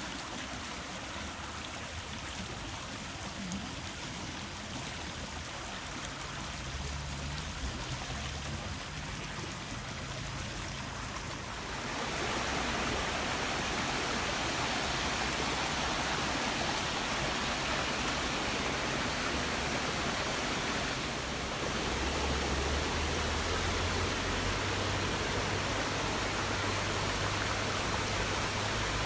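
Waterfall water rushing in a steady, even roar. About twelve seconds in it changes abruptly and becomes fuller, as at a cut to another recording.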